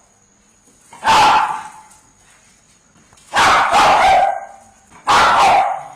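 Dogs barking: a single bark about a second in, a quick double bark in the middle, and another bark near the end, with a faint steady high hum underneath.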